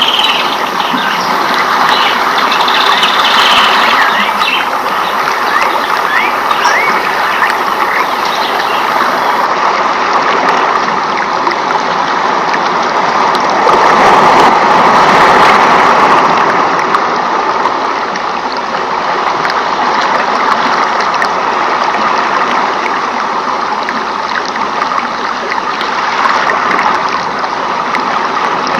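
Running stream water, a steady rushing and trickling that swells slightly about halfway through, with a few short high chirps in the first seconds.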